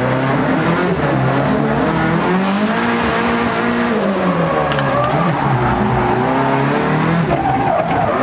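Mercedes M111 inline-four engine in a BMW E92 drift car, heard from inside the cabin, revving up and down during a drift, with tyre squeal.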